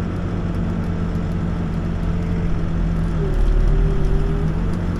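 Backhoe's diesel engine running steadily. A little past halfway the engine note dips and gets louder for about a second, with a higher whine over it, typical of the hydraulics taking a load.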